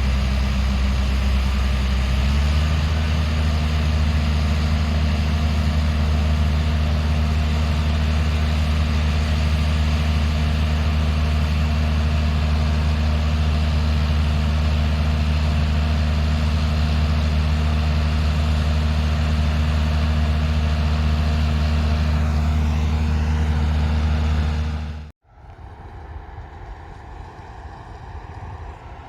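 Large farm machine's diesel engine running steadily under load, its pitch stepping up slightly about two seconds in as the revs rise. Near the end it cuts off abruptly, and a quieter, different engine sound follows.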